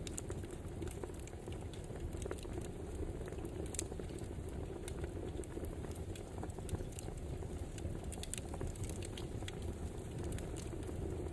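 Crackling wood fire: a steady low rush with scattered sharp pops and snaps at irregular intervals.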